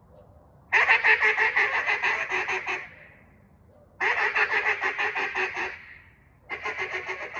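Untuned Singleton Delrin cutdown duck call blown in three runs of rapid, quick-fire duck notes, each run lasting one and a half to two seconds with short pauses between.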